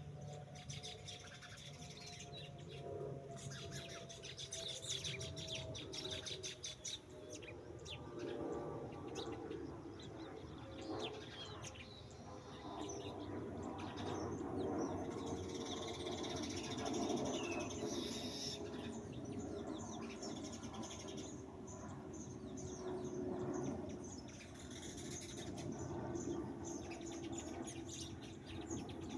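Birds chirping and calling in quick repeated notes throughout, over a faint steady hum whose pitch falls slowly.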